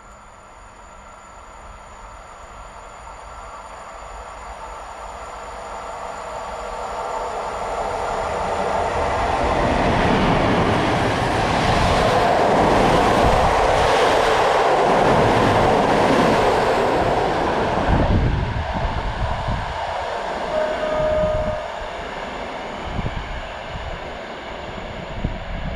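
Passenger train running through a station, growing steadily louder to a peak in the middle and then fading, with the wheels clattering over rail joints in a quick series of knocks in the second half and a brief squeal.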